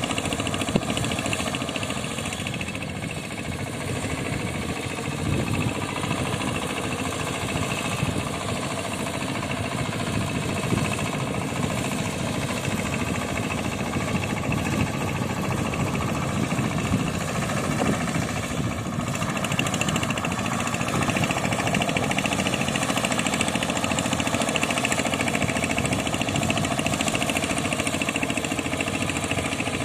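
Tractor engine driving a boat, running steadily under throttle, a little louder over the second half.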